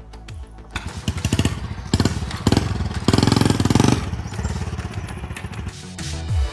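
Honda Wave 100 step-through motorcycle's small engine starting about a second in and revving as the bike rides off past, loudest in the middle, then easing off.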